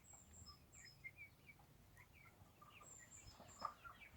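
Near silence outdoors with faint birdsong: scattered short, high chirps from small birds, and a soft tap about three and a half seconds in.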